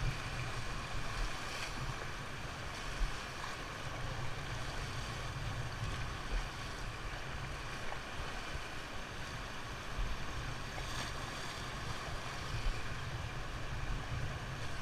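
Fast-flowing river water rushing steadily, with wind rumbling on the microphone.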